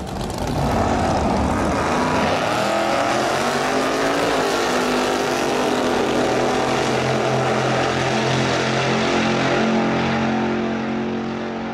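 A race car engine running loudly, its pitch wavering at first and then holding steady, fading out near the end.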